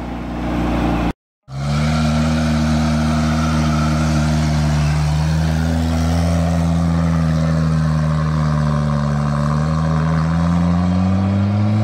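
Volvo 740 Turbo's B230FT turbo four-cylinder idling for about a second, then a short break and a car engine running steadily on the road, its pitch drifting slowly and climbing near the end.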